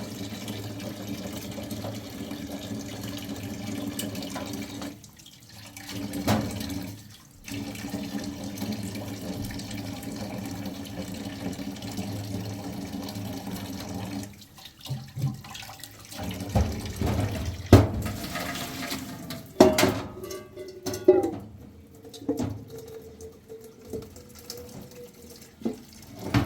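Water running steadily, breaking off briefly twice, then a run of knocks and clatter in the second half.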